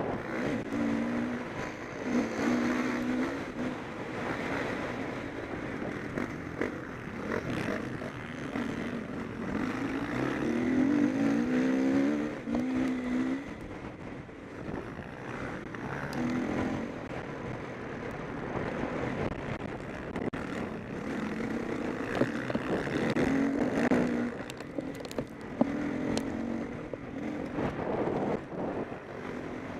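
Motocross bikes racing round the track, engines revving hard and dropping again in repeated bursts as riders accelerate out of corners and pass by, over a steady background of further bikes.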